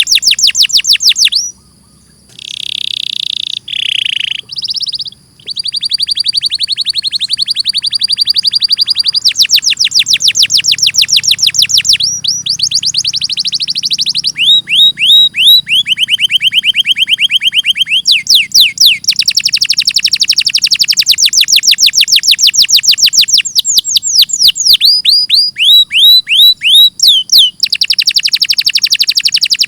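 Domestic canary singing a long, loud song of rolling trills: fast runs of repeated notes that switch to a new note type every few seconds. There is a brief pause and a few buzzy notes about two to five seconds in.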